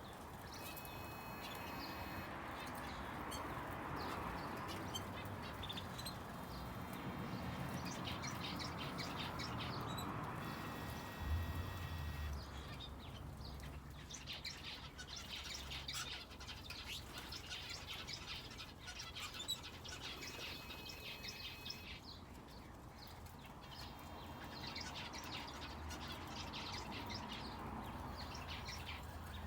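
Small aviary finches and a canary chirping and calling continuously, with rapid high chirps and some held notes. A soft steady hiss sits underneath, and there is a brief low thump about eleven seconds in.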